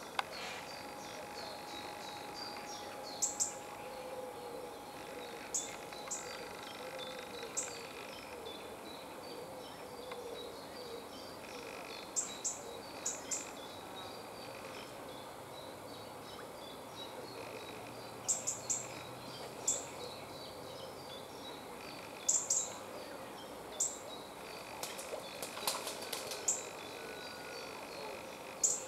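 Small birds chirping: short, high-pitched chirps, single or in quick pairs and triplets, every second or two, over a steady background hiss.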